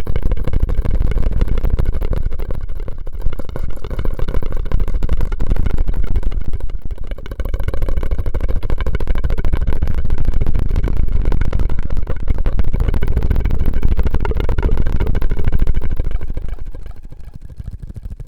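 Close-miked ASMR mouth and straw sounds: a loud, dense, fast crackling with a deep rumbly body. It dips briefly about seven seconds in and fades near the end.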